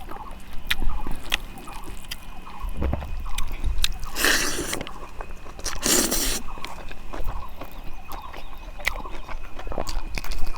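Close-miked eating: chewing and smacking of rice and fish curry, with scattered small clicks and two louder, noisier bites or slurps about four and six seconds in.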